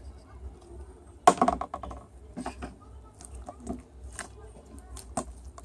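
A series of sharp clicks and knocks at uneven intervals. The loudest comes about a second in and is followed by a quick clatter.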